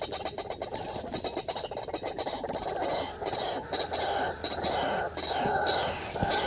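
White-breasted waterhen calling repeatedly in harsh, uneven bursts.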